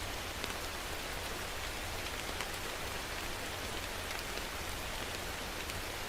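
Steady rain falling, with scattered individual drops pattering on a surface over a constant hiss.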